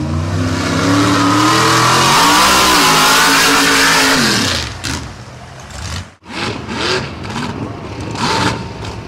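Mud truck's big engine running hard under throttle, then the revs falling away about four and a half seconds in. After a sudden cut about six seconds in, quieter mixed sounds follow.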